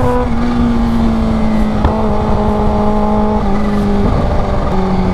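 Kawasaki H2's supercharged inline-four running at steady riding revs, with wind rush on the microphone. The engine note dips slightly a few times in the second half.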